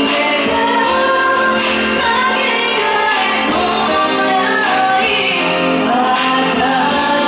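A female vocalist singing a slow song with instrumental accompaniment, a live performance.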